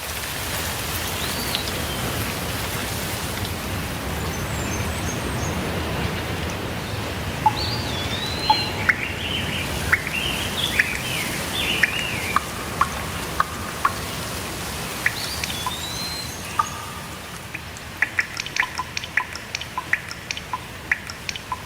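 Steady rainfall with birds chirping over it, their rising and falling calls coming in clusters through the middle. Near the end there is a quick run of short sharp drips or ticks.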